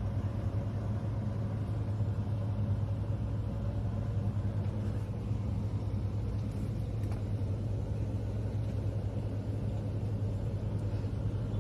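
A vehicle engine running steadily, a low unchanging hum.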